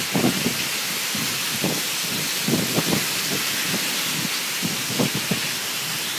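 Heavy rain pouring down in a steady hiss, with irregular low thuds and surges through it.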